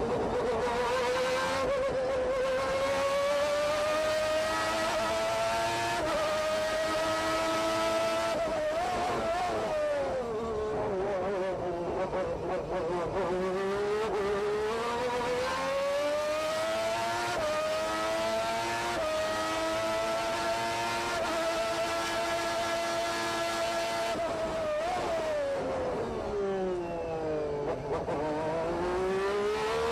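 McLaren MP4/4's Honda 1.5-litre turbocharged V6 at racing speed, heard onboard. The engine note climbs steadily under acceleration with small steps at upshifts. It falls away twice as the car brakes and downshifts for corners, once about ten seconds in and more deeply near the end, then climbs again.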